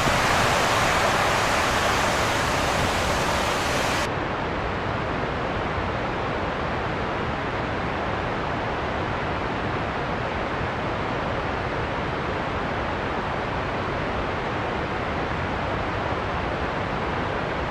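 Steady storm soundscape of rain and wind, an even hiss. About four seconds in, the bright upper hiss cuts off suddenly, leaving a duller, slightly quieter steady noise.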